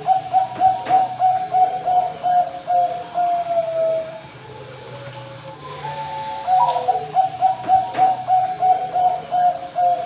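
Zebra dove (perkutut, Bangkok strain) singing: a rapid string of short, even coo notes that ends about four seconds in on a slightly lower drawn-out note, then a second phrase starts about two seconds later and runs on.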